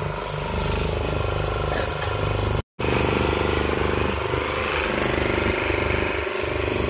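Boat engine running steadily with an even low throb. It cuts out for an instant about two and a half seconds in, then carries on.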